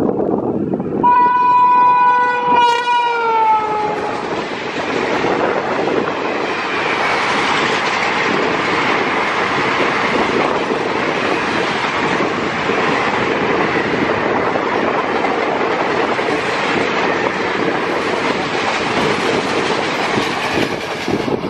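Indian Railways diesel locomotive sounding one horn blast of about three seconds, its pitch falling near the end as the locomotive passes. The train then runs by close at hand, with steady, loud wheel-on-rail noise that eases near the end.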